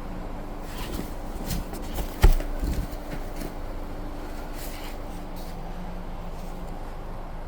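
Handling of boxed parts while rummaging, with one sharp knock about two seconds in and a few lighter knocks just after, over a steady low hum.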